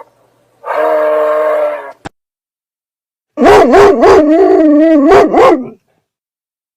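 Animal calls: a steady held call of about a second, a short click, then a louder, longer call that wavers up and down in pitch.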